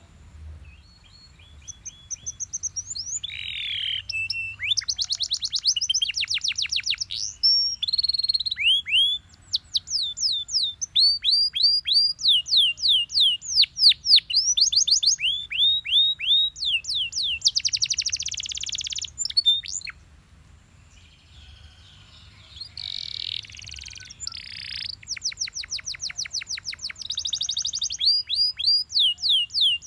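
Canary singing: rolling phrases of rapidly repeated, downward-sweeping whistled notes, now and then a harsher, buzzier note. There is a short pause about two-thirds of the way through.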